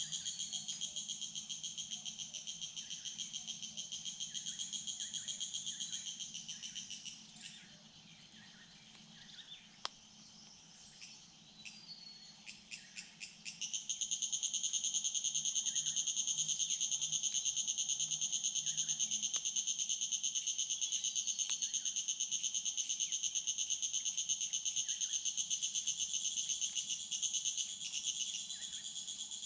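Insect chorus trilling steadily and high. It dies away about seven seconds in, leaving a quieter gap with a few faint bird calls. It starts up again with a run of ticks and comes back louder about fourteen seconds in.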